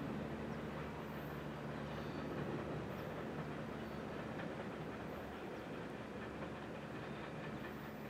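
Train rolling along the track: a steady noise of wheels and cars on the rails, with a low steady hum underneath.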